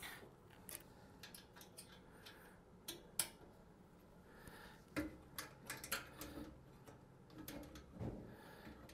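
Faint, irregular metallic clicks and taps of an Allen key working the side-panel screws of a Torre Peppina espresso machine, loosening them to take the panel off.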